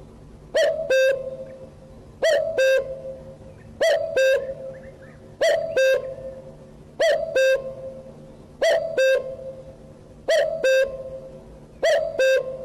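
A bird calling over and over in a loud two-note phrase, each phrase a short rising note and then a held one, repeated very evenly about every second and a half, eight times. A faint steady hum lies beneath.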